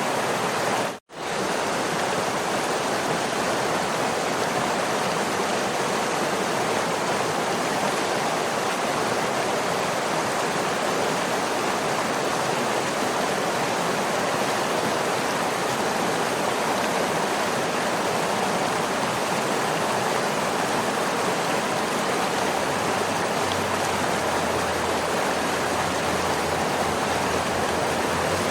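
Waterfall: steady, dense rushing of falling water, with a split-second dropout to near silence about a second in.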